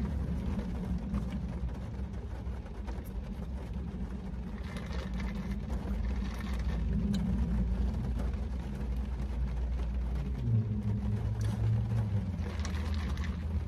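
Steady low rumble of a parked car's engine idling, heard inside the cabin, with a deeper hum swelling for a second or two near the end. Two short hissy noises come about a third of the way in and near the end.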